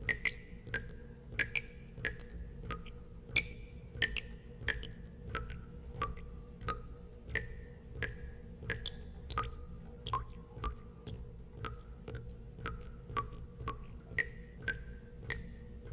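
Water drops falling into water, each a sharp plink with a short ringing tone, about two to three a second at irregular intervals and varying pitches, over a steady low hum.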